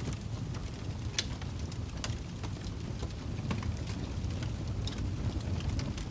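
Wood fire crackling in a fireplace: irregular sharp pops and snaps, a few every second, over a steady low rumble of burning.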